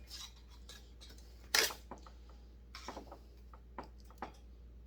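Scattered metal clicks and clinks of hand tools working the muffler bolts of a Husqvarna 55 chainsaw, the loudest about a second and a half in.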